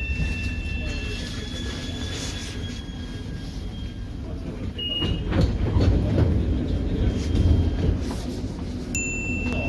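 Metro train running and slowing, its motor whine falling slowly in pitch over a low rumble, with louder wheel and carriage clatter midway.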